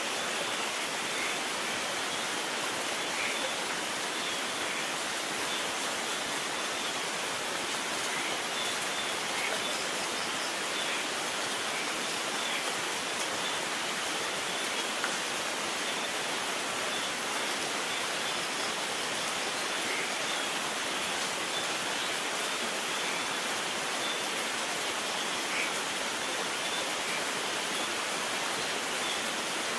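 Steady rain falling in an even hiss, with no thunder.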